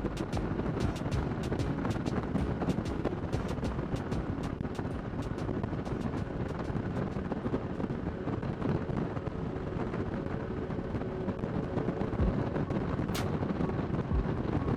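Kawasaki Nomad 1600's V-twin engine running steadily at cruising speed, with wind rumbling and buffeting on the helmet microphone. There is a sharp click near the end.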